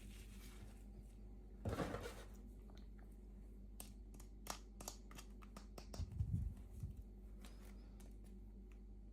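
Quiet handling of toy packaging by hand during an unboxing. There is a short rustle of packaging about two seconds in, then scattered light clicks, and a soft knock or two around six seconds.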